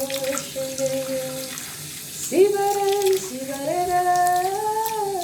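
A solo voice singing long held notes with no accompaniment and no clear words. A steady note fades out, and after a short break a new note swoops up and holds. A last long note climbs slightly and sags back down near the end.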